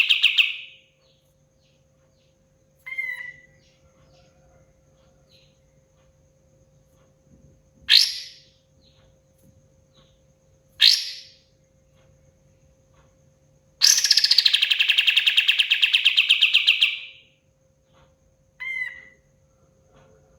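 A kapas tembak, a bulbul, singing in separate phrases with pauses: short calls, two sharp rising notes, and a long rapid trill of about three seconds near the middle-to-late part. A faint steady hum runs underneath.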